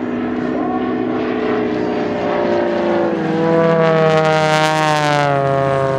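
Pitts aerobatic biplane's piston engine and propeller flying past. The engine note drops in pitch about halfway through as the plane goes by, and it is loudest a little later.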